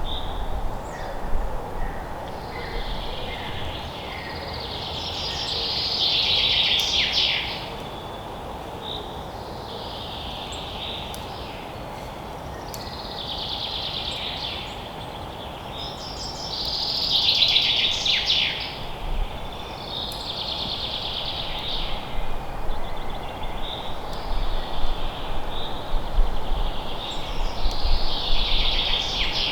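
Forest ambience: songbirds singing short phrases that come again every few seconds, over a steady background hiss.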